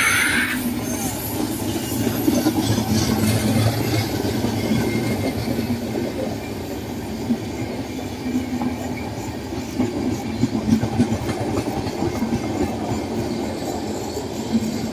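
Indian Railways express train passing at speed: a steady rumble of coaches rolling by, with the wheels clacking over rail joints in uneven bursts, sharpest in the second half. A louder rushing hiss cuts off just after the start.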